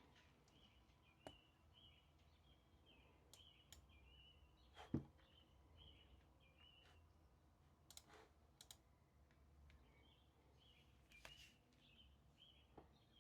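Faint bird chirping, a steady run of short high notes repeating every fraction of a second, with a few sharp clicks scattered through it and one louder knock about five seconds in.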